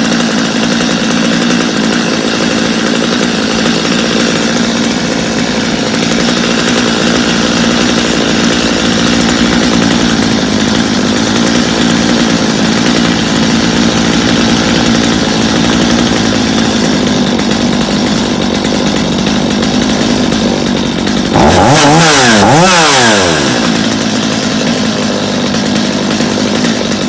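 Stihl two-stroke chainsaw engine idling steadily, then revved hard for about two seconds, with the pitch sweeping up and down, before dropping back to idle. It is running well on a newly fitted carburetor that needed little adjusting, a test run after repair.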